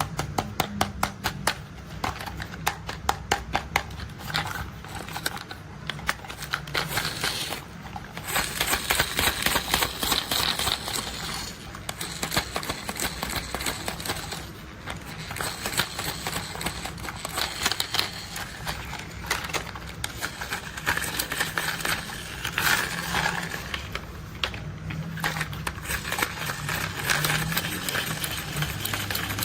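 Rapid clicking and rattling of plastic toy construction vehicles being worked, like toy gears or wheels ticking, in dense fast runs with a few short pauses.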